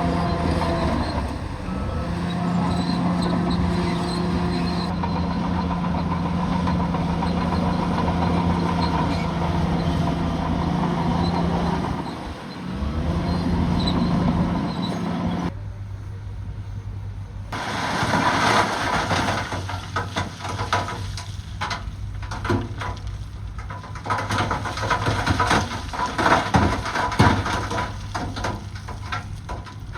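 Bulldozer's diesel engine running steadily, its pitch briefly dipping and recovering about twelve seconds in. From about halfway there are repeated clanks and scraping of steel against rock over a lower engine note.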